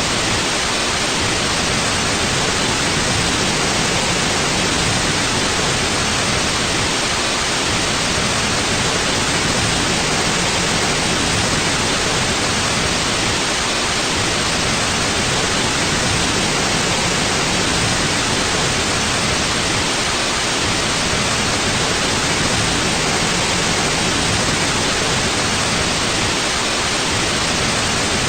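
Steady white noise: an even, bright hiss that does not change in level or character.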